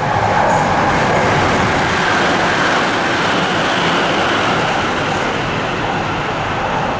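Tsukuba Express electric commuter train running through the station at high speed without stopping: a loud rush of wheels on rail and air, strongest about a second in and easing a little as the last cars go by.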